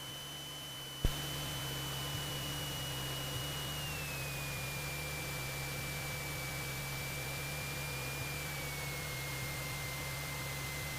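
Cessna 172SP cabin noise through the intercom: the four-cylinder Lycoming engine's steady drone with a whining tone that steps down in pitch twice as power comes off on final approach. A sharp click about a second in, after which the noise is a little louder.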